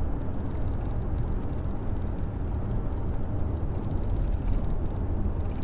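Car driving, a steady rumble of engine and road noise heard from inside the cabin.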